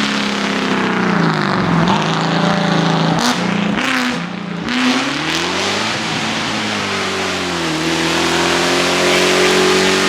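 Race car engine on a hillclimb run, its revs rising and falling several times as it brakes, shifts and accelerates through the bends. A few short sharp cracks come about three to four seconds in.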